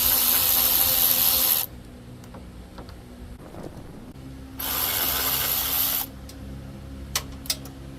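Two long hissing blasts, like spray from a nozzle: the first is already going and cuts off under two seconds in, the second starts past the midpoint and lasts about a second and a half. A few small clicks follow.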